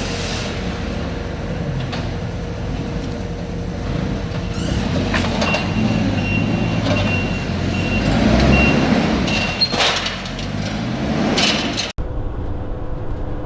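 Semi truck running with a steady low engine hum and some clatter, with a run of short, high-pitched beeps through the middle. A sudden break near the end, after which the hum carries on.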